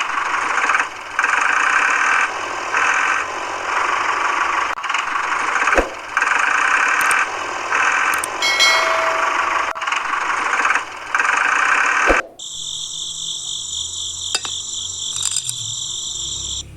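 Small motor running in stop-start bursts of about a second each, then changing to a steadier high whine over a low hum for the last few seconds.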